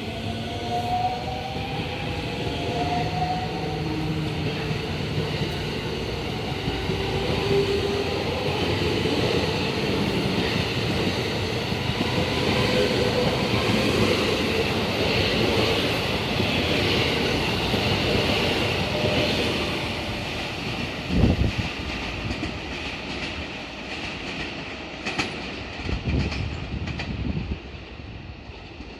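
JR West 223 series electric train pulling out. Its traction motors whine, rising in pitch as it accelerates, over the rumble and clatter of the wheels on the rails. A few heavy thumps come about two-thirds of the way in, and the sound fades near the end as the train draws away.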